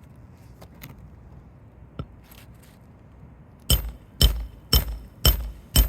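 Five hammer blows on a metal Roof Snake shingle-nail removal tool, about two a second, each a sharp strike with a metallic ring, as a roofing nail under the shingles is driven out.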